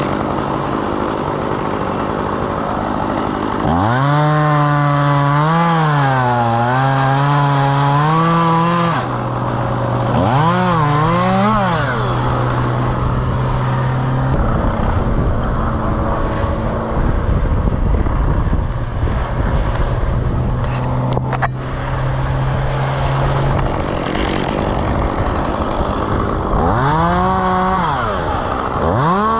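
Two-stroke chainsaw idling, revved up three times, about four seconds in, around ten seconds in, and near the end. During the first, longest rev the pitch wavers up and down as the chain bogs under load while cutting wood.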